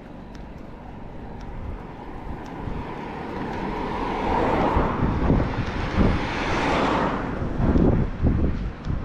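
A motor vehicle driving past, growing louder over several seconds and fading near the end, with a few low thumps.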